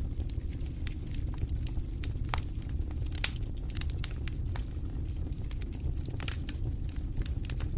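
Wood fire in a fireplace crackling: irregular sharp pops and snaps over a steady low rumble, with one louder pop about three seconds in.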